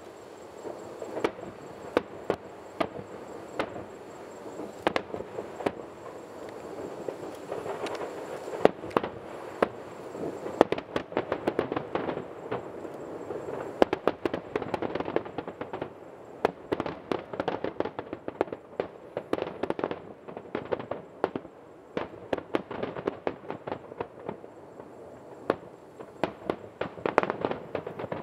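Aerial firework shells bursting: a string of sharp bangs and pops at irregular intervals, coming thicker and faster through the second half.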